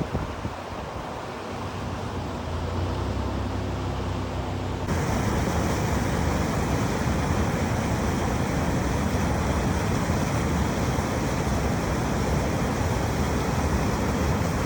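A vehicle engine humming under a steady rushing noise. About five seconds in, the rushing jumps abruptly to a louder, even wash that holds steady.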